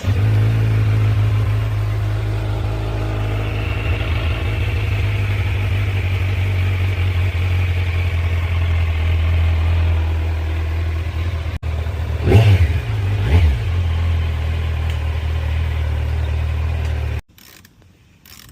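2025 Kawasaki Z900's inline-four engine on its stock exhaust, starting up and idling steadily, revved twice in quick succession about two-thirds of the way through, then switched off suddenly shortly before the end.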